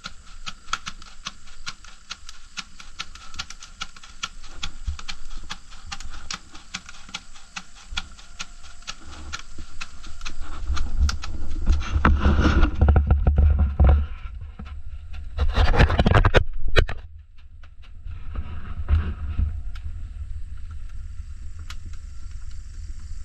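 Oak firewood fire burning, with a dense, irregular crackle of small pops. Two louder bursts of rustling noise with a low rumble come about halfway through.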